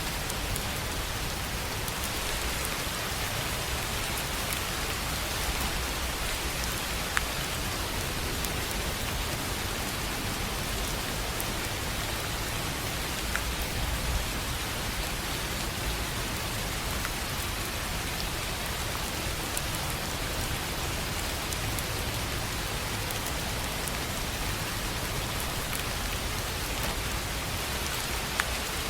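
Steady rain falling on a tin roof, an even hiss with now and then a single sharper drop tick.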